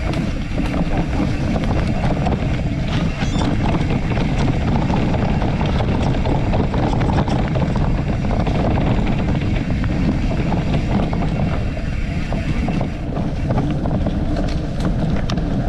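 Steady wind rumble on the microphone during a bicycle ride, with the bike rolling over rough ground.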